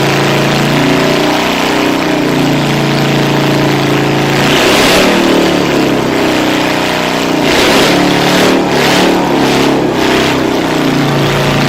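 Motorcycle engines idling, with a rev about halfway through and several short throttle blips later on.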